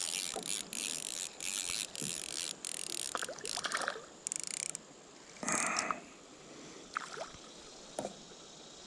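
Fishing reel being cranked to bring in a hooked bluegill, giving a rapid ratcheting click for about the first four seconds. After that it goes quieter, with a few short, separate knocks or splashes.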